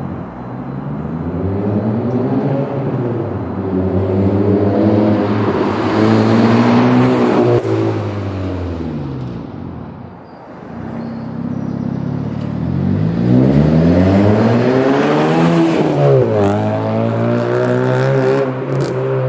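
Honda Civic's R18 1.8-litre four-cylinder engine through a custom exhaust with the mid silencer and backbox removed, revving up for several seconds, falling back, then climbing again with a sudden drop about two thirds of the way in. A few sharp cracks come near the end, typical of exhaust pops when the throttle is lifted.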